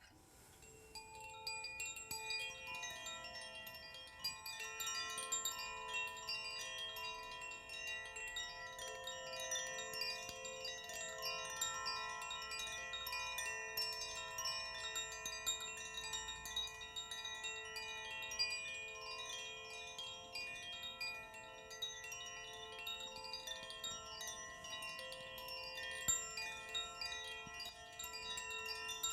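Chimes played continuously as part of a sound bath: a dense shimmer of rapid tinkling strikes over many overlapping ringing tones, starting about a second in.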